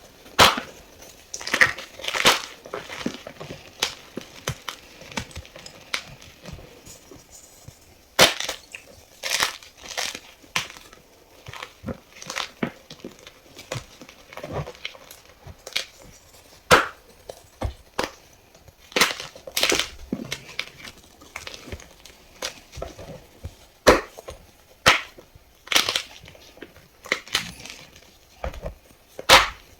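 Fresh block of gym chalk being crushed: irregular crisp crunches every second or so, some loud and sharp, with softer crumbling between.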